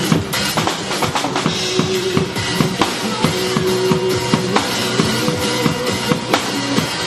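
Drum kit played along to a pop backing track: a steady, busy beat of bass drum, snare and cymbals over the recorded song.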